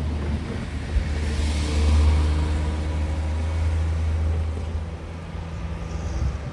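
A car driving past on the street, its engine hum and tyre hiss swelling to a peak about two seconds in and then fading.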